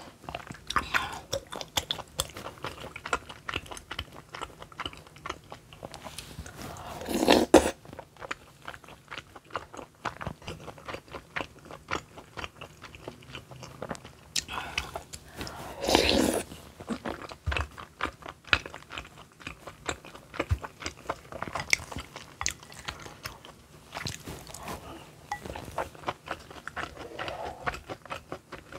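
A person eating rosé tteokbokki, chewy rice cakes in a creamy sauce, close to the microphone: chewing and wet mouth sounds with many small clicks. Two louder bursts lasting about a second come about a quarter of the way in and just over halfway.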